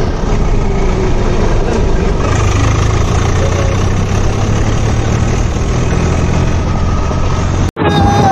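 Tractor diesel engine running steadily under way, with a low steady hum. It breaks off abruptly near the end.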